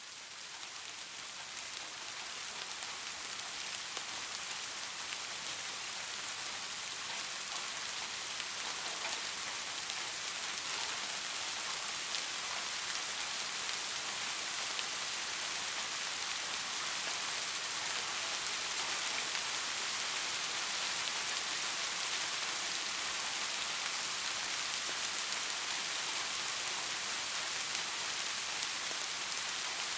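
Steady rain falling, an even hiss with fine patter of drops, fading in over the first few seconds.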